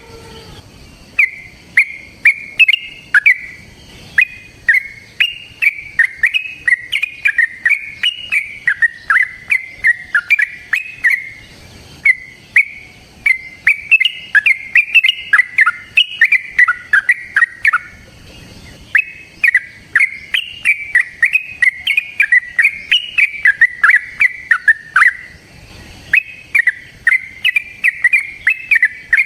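Yellow-vented bulbul (trucukan) singing long, rapid runs of short, bubbly chirping notes, broken by a few brief pauses.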